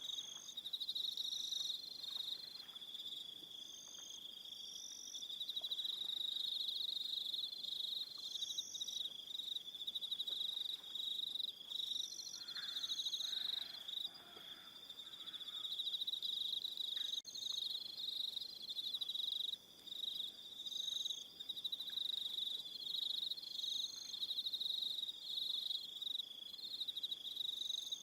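Crickets chirping in a steady, continuous high-pitched evening chorus, with short higher notes coming and going above it.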